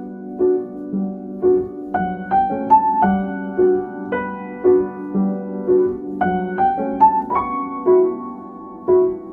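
Background piano music: a gentle melody of single struck notes at an even, unhurried pace.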